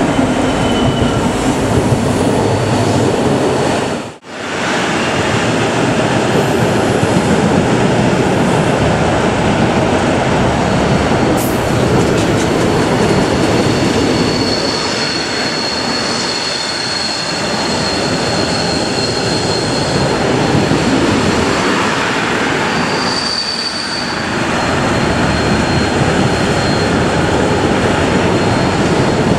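Freight train of container wagons rolling past on the rails behind a Class 66 diesel locomotive, with a steady rumble of wheels. A thin high wheel squeal comes and goes on the curve, from around the middle of the stretch and again later on. The sound drops out sharply for a moment about four seconds in.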